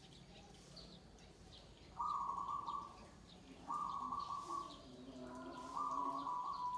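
Zebra doves (perkutut) cooing: three held calls about two seconds apart, starting about two seconds in, over faint high chirps of smaller birds.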